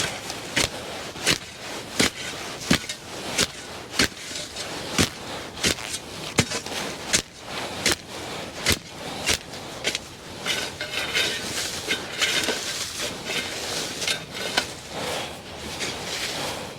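A hand tool repeatedly striking and breaking up bird droppings dried as hard as rock, with sharp hits about three every two seconds. In the last several seconds the hits soften and a scraping comes in.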